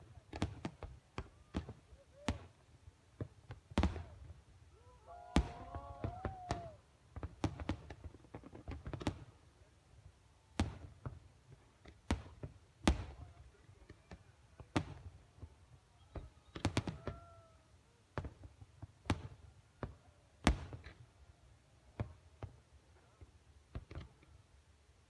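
Fireworks exploding: a long run of sharp bangs at irregular intervals, each followed by a low rumble, with faint voices briefly heard between them.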